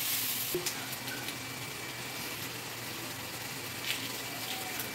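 Sliced tomatoes, peppers and onions sizzling in a wok as a steady hiss, a little louder at first and then settling, with a few light clicks of a metal spatula against the pan.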